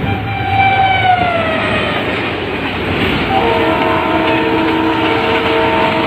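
Diesel locomotive air horns over the steady running noise of a moving train. A horn falls in pitch over the first second and a half as it passes. About halfway through, a multi-note horn starts and sounds steadily.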